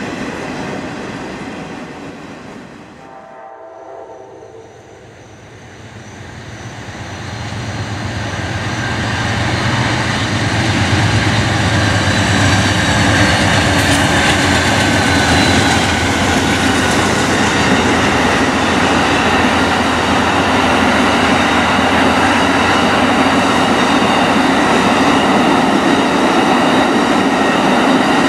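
A freight train's last boxcars rolling past and fading away. A few seconds in, Amtrak's Auto Train is heard approaching, growing steadily louder. Its locomotives pass about 14 seconds in, followed by a long, steady run of passenger cars rolling by.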